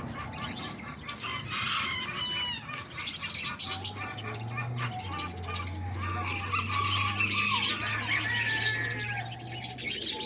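A flock of small parrots (parakeets, lovebirds and cockatiels) chirping and squawking over one another in many short calls. A low steady hum joins about four seconds in.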